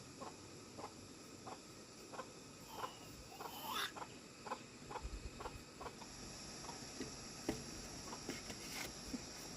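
Faint farmyard sounds: chickens clucking in short, irregular calls, with a steady trill of insects in the background.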